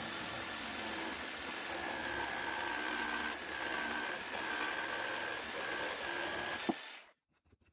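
Parkside jigsaw running as it cuts a pine board, with a steady motor whine that wavers slightly under load; it stops about seven seconds in.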